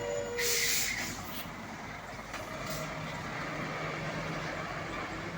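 A heavy truck's air brakes let out a short, loud hiss of air, followed by the steady rumble of the diesel engine running.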